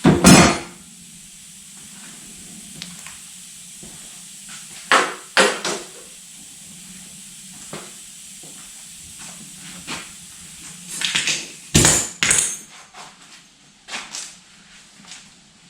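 Scattered metallic clanks and knocks of tools and parts being handled during engine work, the loudest right at the start and a cluster of several about eleven to twelve seconds in.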